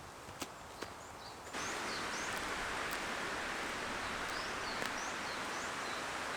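Faint outdoor ambience with a few small clicks, then about one and a half seconds in a steady rushing noise cuts in, with small birds chirping high above it; it cuts off suddenly at the end.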